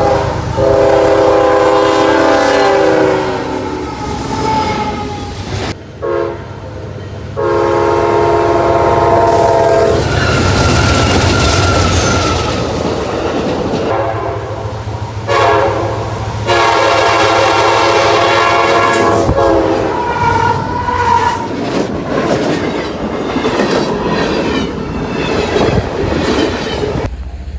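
Diesel locomotive horn on a CSX freight train sounding the grade-crossing signal: two long blasts, a short one and a final long one, over the low rumble of the locomotives and the clatter of wheels on the rails.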